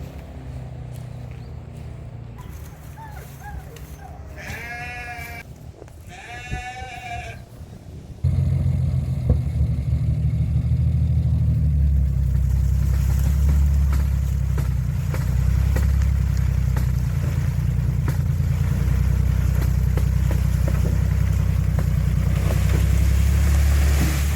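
Fordson Major tractor engine running at low level, with two short wavering livestock bleats. About eight seconds in, the engine sound jumps much louder and carries on as a steady low rumble.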